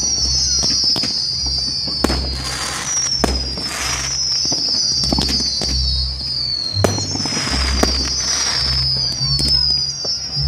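Fireworks going off: sharp bangs and several crackling bursts, over a continuous run of short, high, falling whistles. Music with stepped bass notes plays underneath.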